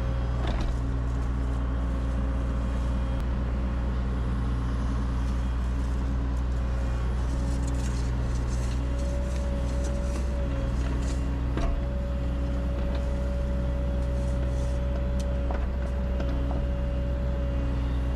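Excavator diesel engine running steadily, with a steady whine above it and a few light knocks.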